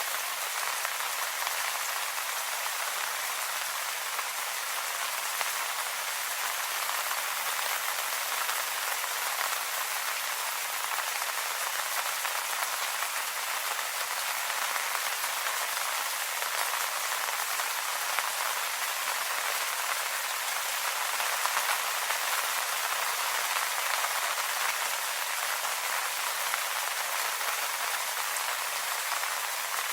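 Steady rain pattering on leaves: an even hiss of many drops with no let-up.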